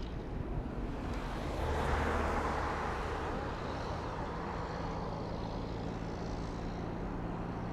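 Steady distant rumble of the departing Airbus A320-233's IAE V2500 turbofans as it climbs away, swelling briefly about two seconds in.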